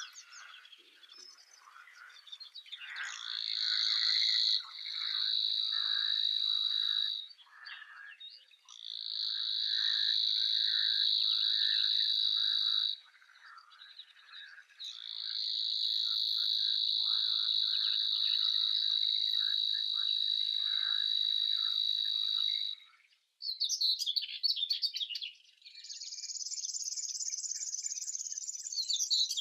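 A chorus of animal calls: long, steady, high-pitched trills in several spells lasting a few seconds each, over scattered short, lower calls. About 23 seconds in, the sound breaks off and gives way to quicker, pulsing high chirps.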